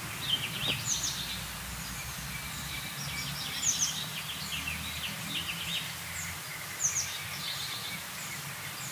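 Small birds chirping, short high calls repeated throughout, over a steady low background hum.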